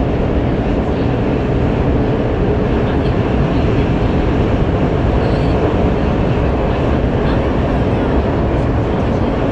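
Metro train running at speed in a tunnel, heard from inside the carriage: a loud, steady rumble of wheels and running gear with no distinct knocks or changes.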